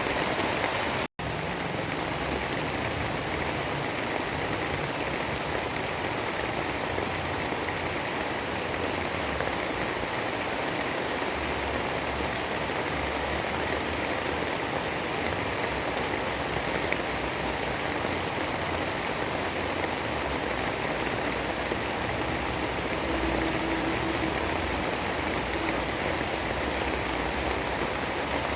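Steady, even rain noise with no pauses, except a momentary total dropout about a second in.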